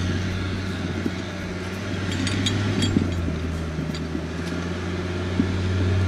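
Off-road 4x4 engine running with a steady low drone, pulling on a strap or winch line that has just been tied on. A few light clicks come about two to three seconds in.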